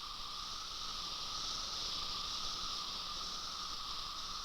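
Chorus of periodical cicadas: a steady, even buzzing drone from many males calling together, swelling slightly in the middle.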